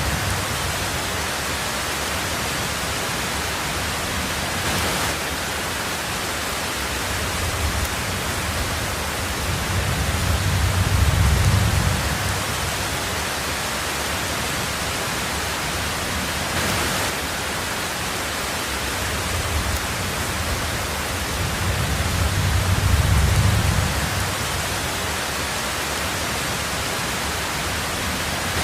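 Heavy rain drumming steadily on a tin roof, an even hiss, with two low rumbles of distant thunder that swell and fade roughly ten seconds apart.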